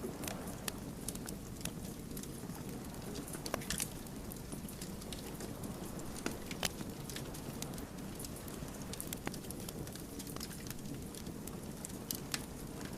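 Wood fire burning with a steady low rumble and frequent irregular crackles and pops of burning logs, a few louder snaps scattered through.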